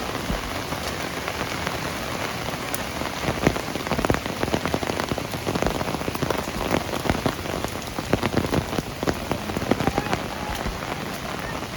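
Heavy rain falling steadily: a dense hiss, with many sharp, close drop impacts pattering over it.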